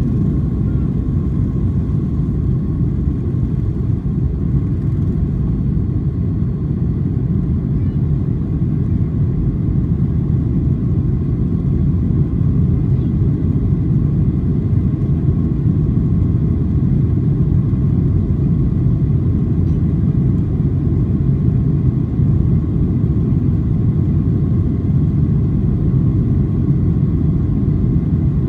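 Steady low rumble of a Boeing 737-800 cabin, from its CFM56-7B engines and the airframe, with a faint steady hum over it. It grows slightly louder about twelve seconds in.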